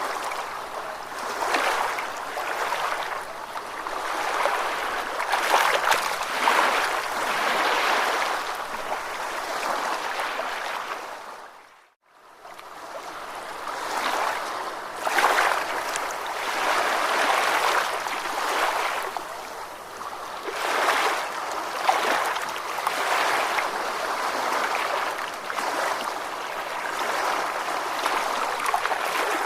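Recorded ocean waves washing in and out, a steady rush that swells and eases every few seconds. About twelve seconds in it fades out briefly and fades back in, as at the loop point of the recording.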